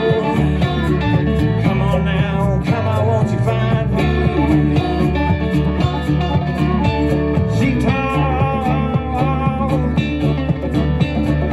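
Live band playing a long jam, guitar leading over a steady bass and beat.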